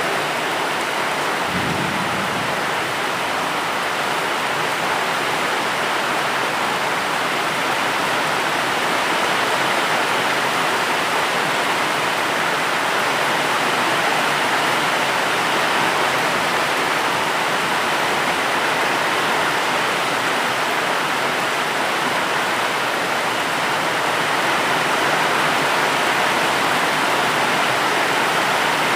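Steady, heavy rainfall hissing evenly, with a brief low rumble about two seconds in.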